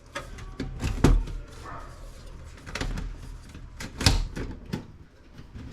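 Handling tools and parts while taking apart a desktop computer: a run of knocks and clicks, the loudest about a second in and about four seconds in.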